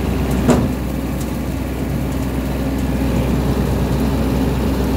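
Small tractor's engine running steadily under load, with one sharp crack about half a second in.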